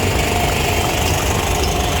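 Steady engine noise, a low continuous rumble with a faint constant hum above it.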